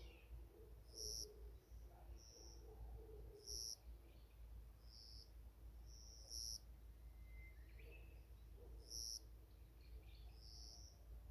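Faint forest birdsong: a short, high call repeats about every two and a half seconds, with other brief high notes from birds in between.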